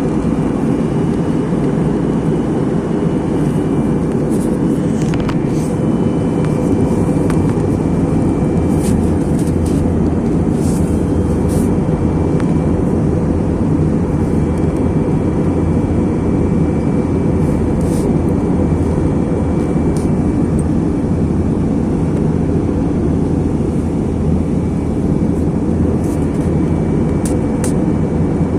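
Steady low rumble of airflow and engines inside the cabin of an Airbus A321 in flight, with a few faint clicks.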